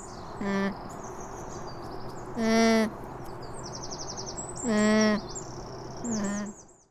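Alpaca humming: four short calls of steady pitch, a few seconds apart. Small birds chirp and trill in the background.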